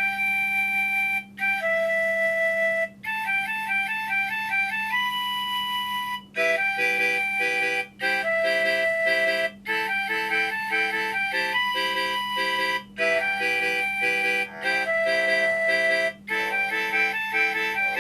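Polyphonic MIDI ringtone melody played on a mobile phone: a woodwind-like synthesized lead line starts right at the beginning, and a bouncing bass line joins about six seconds in, with short rests every second or two. A steady low hum runs underneath.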